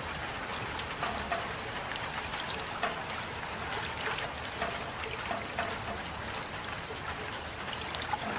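Steady rain falling, with close individual drops plinking and dripping as if on water or a hard surface.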